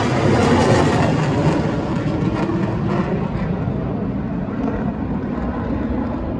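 Military aircraft flying past overhead, a broad engine noise that is loudest in the first second and a half, its hiss thinning out after about three seconds as the aircraft move off.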